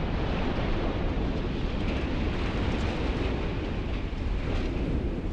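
Steady rumbling noise, with no separate bangs, from the explosive demolition of a massive gas storage structure.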